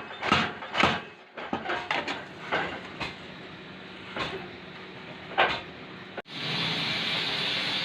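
Metal forging strikes on a blacksmith's work, about two a second, breaking off a second in into a few scattered knocks. About six seconds in it cuts abruptly to a steady hiss.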